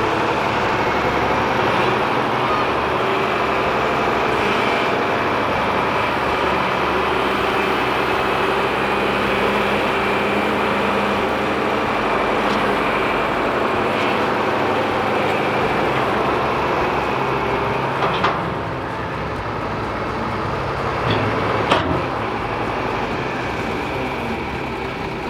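Farm tractor engine running steadily while working the front loader, easing off a little about two-thirds of the way through, with a few sharp knocks near the end.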